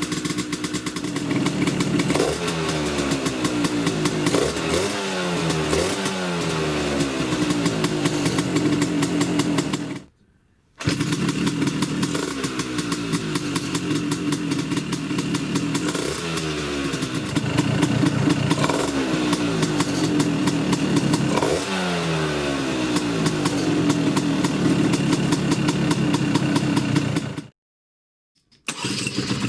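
Tuned Vespa two-stroke scooter engine idling, with several quick throttle blips in a row where the revs rise and fall, then settling back to idle. The sound cuts out completely twice for about a second. The engine is fed through a reed valve intake, which can add a high, annoying whine.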